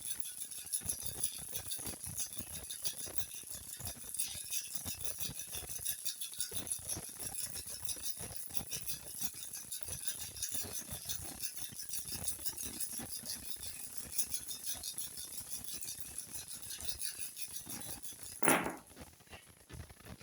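Cowrie shells (búzios) shaken together in cupped hands for a divination throw, making a continuous fine clicking rattle. About eighteen and a half seconds in they are cast down with one loud clatter.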